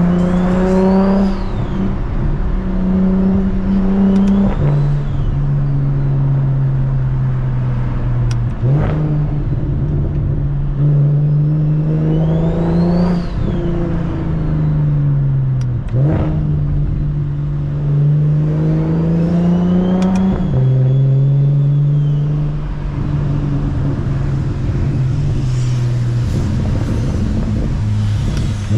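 BMW 335is N54 inline-six with a single-turbo conversion pulling hard through the gears. The revs climb and drop at each of about five quick upshifts, with a high whine rising with the revs. In the last few seconds it settles to a steady cruise.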